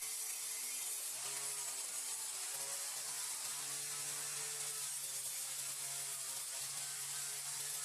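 A small power tool running steadily, with a constant high hiss and a humming drone that shifts slightly in pitch.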